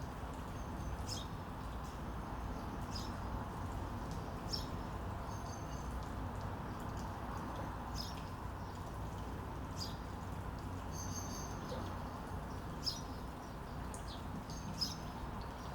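Small songbirds chirping: short, high chirps every second or two, with a few brief held whistled notes, over a steady low background hiss.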